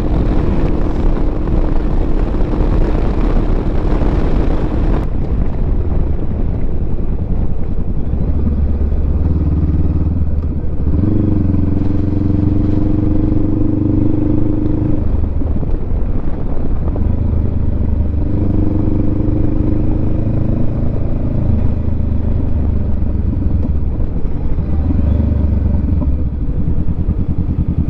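Honda Rebel 500's parallel-twin engine running under way at road speed, its pitch rising and falling with throttle changes. Wind rush over the microphone in roughly the first five seconds.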